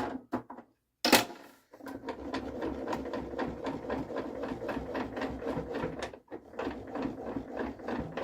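The mechanism of an unplugged table saw being adjusted by hand: two sharp knocks, then a rapid, even run of mechanical clicks for about four seconds, a short break, and another run of clicks.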